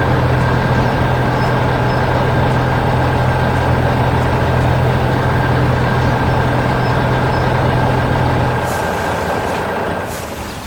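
Heavy construction-vehicle engine sound effect running steadily with a low hum and a thin high whine, stopping about nine seconds in and fading out soon after.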